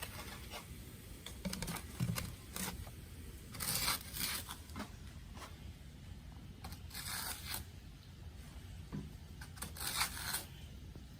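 Three short scraping, rustling noises with a few small knocks and clicks between them.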